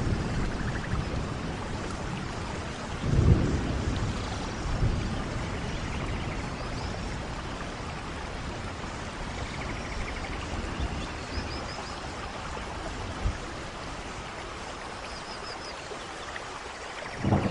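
Steady rain falling, with thunder rumbling: one low rumble about three seconds in and another building near the end. A few faint high chirps are heard in between.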